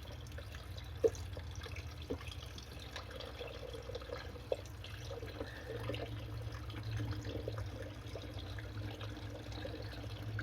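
Water trickling and dripping steadily in a drained aquaponics plumbing line, over a steady low hum. A few light knocks come through it, the sharpest about a second in.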